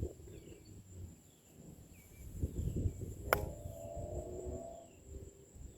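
A golf club strikes a ball once, a sharp click about three seconds in. Faint insect chirping runs underneath.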